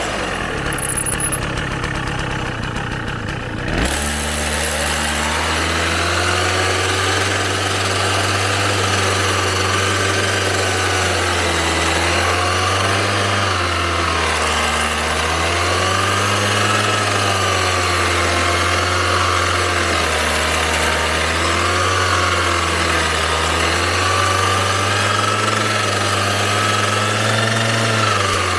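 Small petrol engine of a self-propelled grass mower running steadily, its pitch sagging and recovering every few seconds. The sound changes abruptly about four seconds in.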